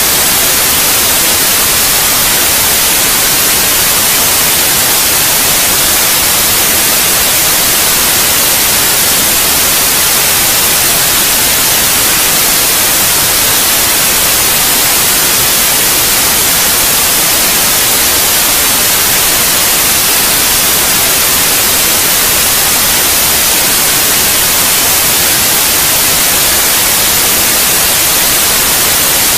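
Steady white noise, an even hiss across the whole range, brightest in the treble, unchanging throughout, played as a sleep aid for babies.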